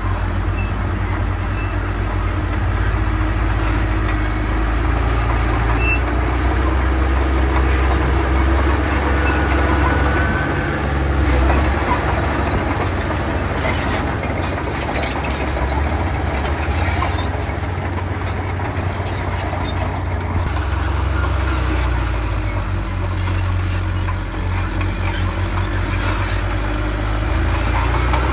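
Diesel engine of heavy earthmoving machinery running steadily, its low drone shifting in pitch and load a few times.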